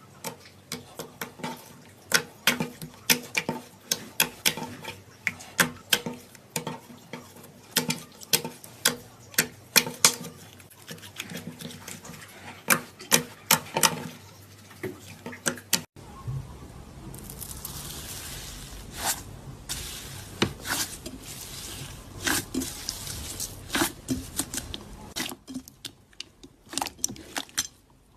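Slime being squeezed, poked and stretched by hand: a rapid run of sharp wet clicks and pops as air pockets burst. About halfway through it cuts abruptly to a softer, hissier squishing with scattered pops.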